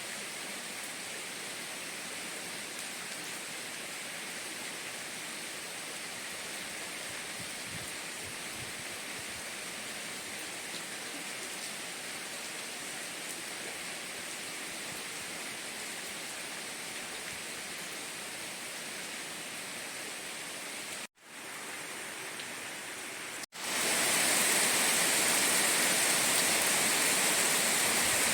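Steady hiss of heavy rain. It cuts out for a moment twice, about 21 and 23 seconds in, then comes back louder.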